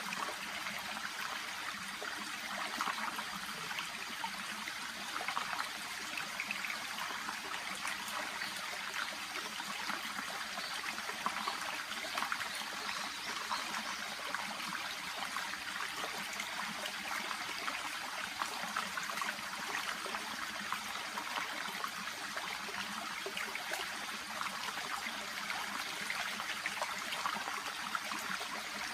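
A shallow brook babbling and trickling steadily over and around water plants.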